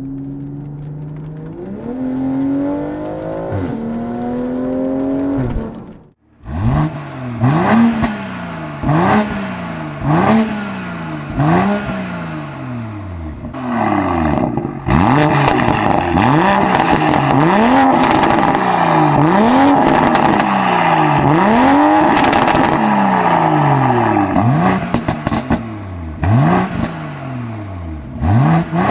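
BMW M340i's turbocharged B58 straight-six, fitted with free-flow downpipes and a Valvetronic Designs valved catback exhaust. For about six seconds it pulls up steadily through the revs. After a short break it is blipped again and again, about once a second, with crackles and pops as each rev falls, growing louder partway through.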